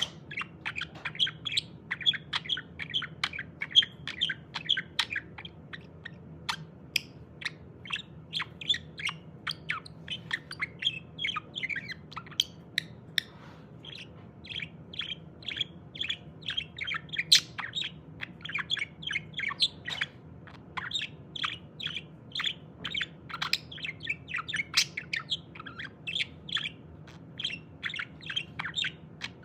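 Budgerigar chattering: a quick, unbroken run of short chirps and clicks, with a brief lull about halfway through.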